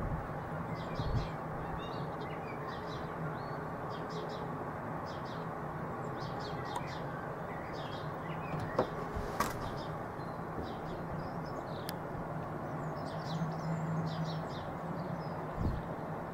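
Small birds chirping again and again over a steady low rumble and hum. There is a single sharp click about nine seconds in.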